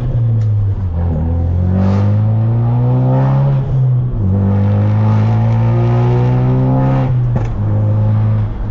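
Tuned Ford Focus RS, about 450 horsepower, accelerating hard through the gears. The engine note climbs steadily three times, dropping with an upshift about a second in, about four seconds in and again about seven seconds in.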